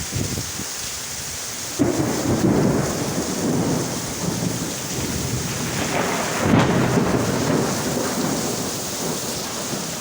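Rain falling steadily, with thunder that breaks in suddenly about two seconds in and rumbles on, swelling again past the middle before dying back.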